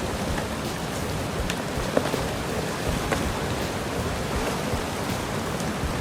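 A steady, dense hiss of water, with a few sharp clicks, the sharpest about two seconds in.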